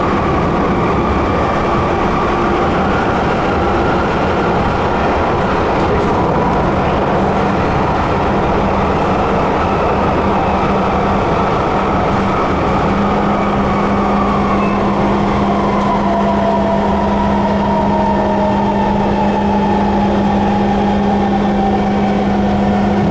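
Interior ride noise of a C151 MRT train: steady rumble of wheels on the track, with a whining traction motor whose pitch slides slowly down through the second half as the train slows.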